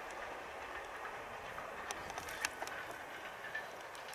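Freight train wagons rolling past on the track: a steady rolling noise with a few sharp clicks around the middle.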